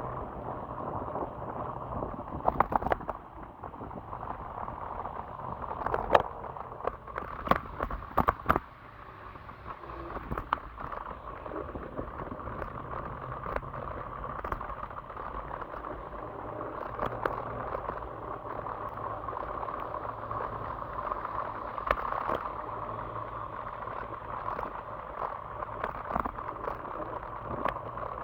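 Steady running noise of an electric scooter ride, with a low hum under it. Several sharp knocks and rattles come between about 2 and 9 seconds in.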